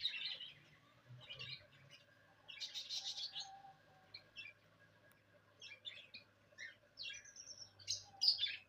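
Small pet cage birds chirping in repeated short bursts of high-pitched calls, over a faint steady low hum.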